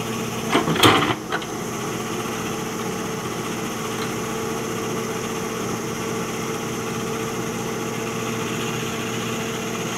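JCB backhoe loader's diesel engine running steadily at idle, a constant drone with a steady hum. A brief louder clatter comes about a second in.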